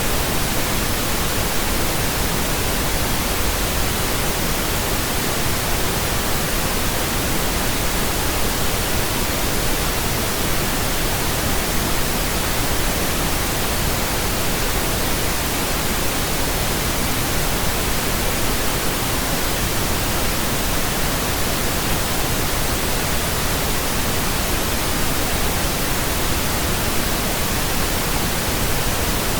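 Steady synthetic pink noise: an even, unchanging hiss spread across the whole range, with no other sound in it.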